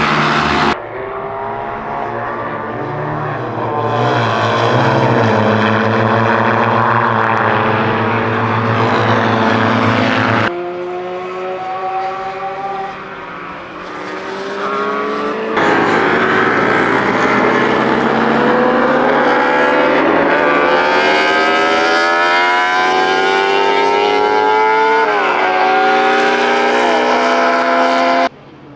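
Classic racing motorcycle engines running hard on track, revs rising and falling through gear changes as the bikes pass. The sound is several short clips cut together, changing abruptly about 1, 10 and 16 seconds in and dropping away just before the end.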